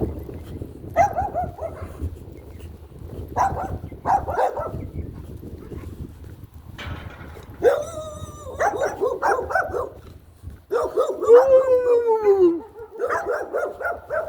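A dog barking in short bursts, with a long falling howl about eleven seconds in and a quick run of barks and yips near the end.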